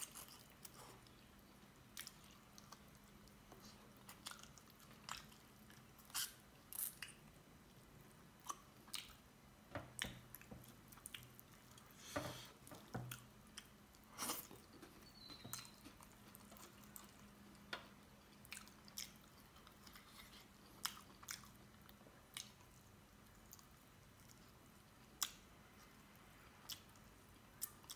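A person eating by hand close to the microphone: quiet, wet chewing, biting and lip smacks, with short clicks scattered irregularly throughout.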